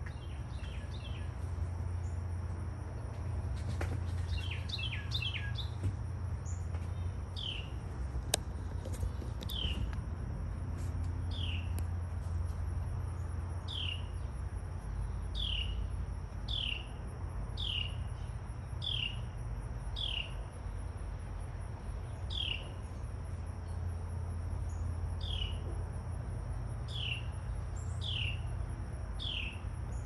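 A songbird repeating a short, down-slurred whistled note about once every second or so, with a quicker burst of notes a few seconds in, over a steady low rumble.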